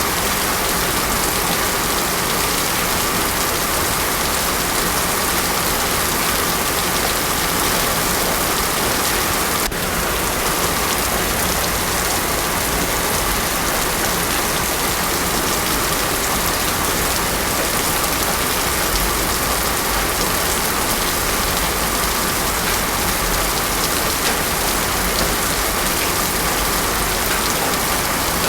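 Heavy rain falling steadily on a road with no thunder: a dense, even hiss of countless drops that does not let up.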